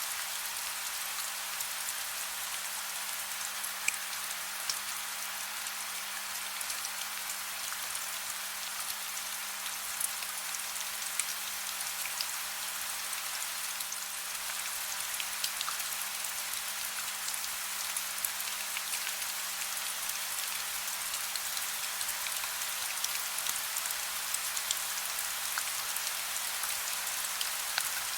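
Soft, steady rain: an even hiss with scattered individual drops ticking through it.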